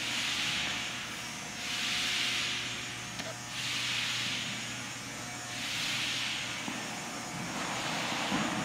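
Someone blowing into a straw to inflate a 9-inch balloon, with rhythmic hissing breaths of about a second each, roughly one every two seconds.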